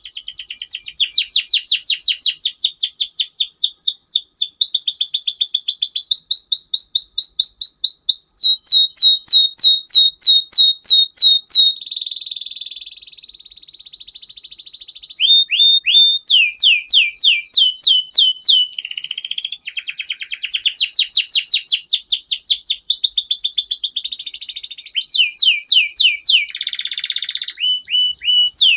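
Domestic canary singing a long, unbroken song of rapid trills: runs of quick repeated notes, many of them falling sharply in pitch, with a short held whistle about twelve seconds in.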